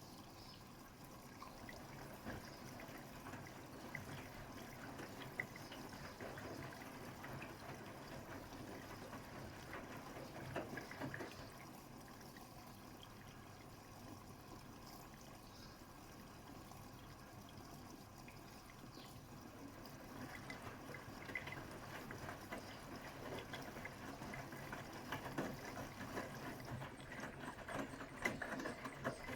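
Water sloshing and trickling inside the drum of a Bosch Serie 6 WAT286V0 front-loading washing machine, with a quieter stretch in the middle.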